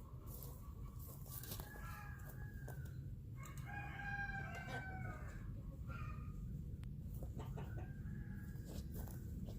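A rooster crowing, its longest and loudest crow in the middle, with shorter, fainter calls before and after it.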